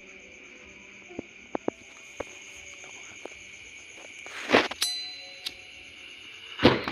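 Scattered light metallic clicks, then two louder clanks, the first followed by a brief ringing tone, over a steady high insect chirring.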